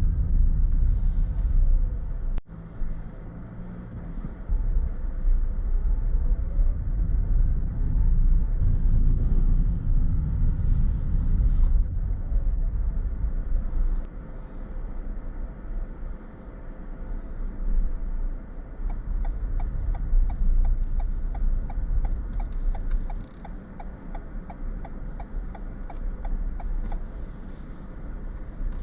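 Car being driven, with a steady low rumble of engine and road noise. Near the end, a light regular ticking of about three a second runs for several seconds.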